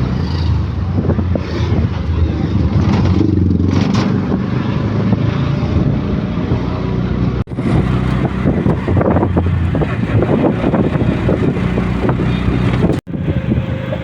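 Loud, steady road-vehicle rumble, broken by two abrupt cuts partway through.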